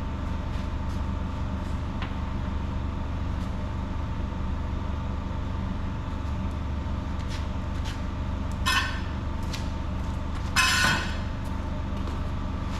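Steady mechanical hum in a workshop, with a few light clicks and two brief metallic clinks a little after two-thirds of the way through, from metal hardware being handled.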